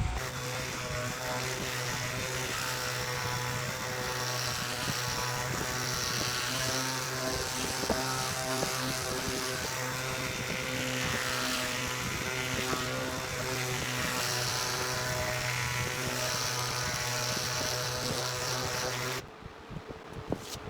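Electric polisher running steadily with a constant motor hum, buffing a fine-grit polish into a wood tabletop's finish; it shuts off about 19 seconds in.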